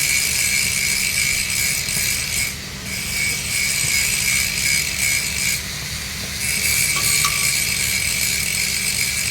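Arc welding on 3-inch schedule 80 pipe: the arc burns with a steady hiss, breaks for under a second just past the middle and strikes again, over a steady low hum.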